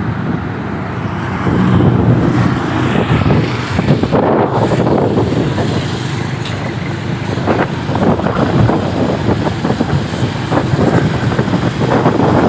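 Motorcycle engine running under way, with wind buffeting the microphone in gusts.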